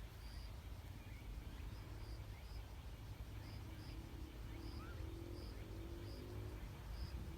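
Faint outdoor background: a steady low rumble with short high chirps that repeat every half second to a second.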